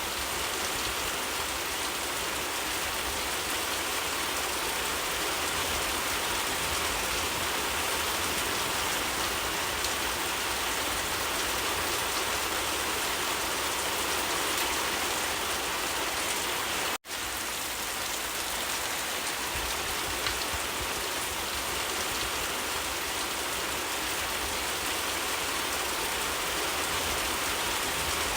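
Steady, even rainfall. A split-second gap of silence cuts through it about two-thirds of the way in.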